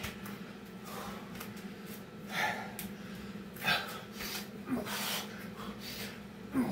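A man breathing hard in the middle of a set of Navy SEAL burpees, with a few sharp, noisy breaths, the strongest about two and a half and nearly four seconds in. A steady low hum runs underneath.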